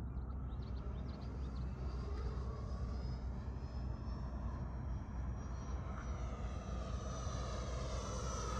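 FMS Super Scorpion 90 mm electric ducted fan jet on 8S power in flight: a steady fan rush and whine whose pitch sweeps down and back up as the jet passes, over a low rumble.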